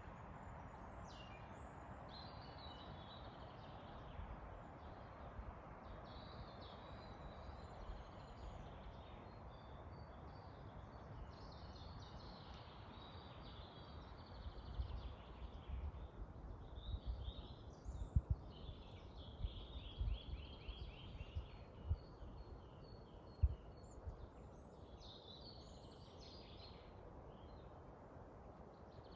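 Several songbirds chirping and singing over a steady rush of wind through the forest, with a quick trill about two-thirds through. Some low thumps, the loudest sounds, come in from about halfway to three-quarters through.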